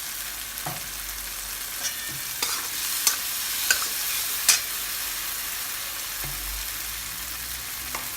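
Onion-and-spice masala frying in oil in a kadai: a steady sizzle while it is stirred, with a few sharp clicks of the stirring utensil against the pan partway through.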